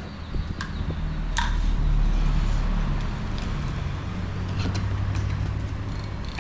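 Low, steady rumble of a motor vehicle's engine close by, swelling to its loudest about two seconds in and then easing off, with a few sharp clicks early on.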